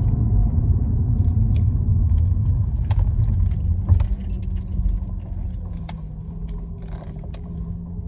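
Low rumble of a parked car heard from inside the cabin, with scattered small clicks and handling noises and one sharper knock about four seconds in. The rumble grows quieter over the last few seconds.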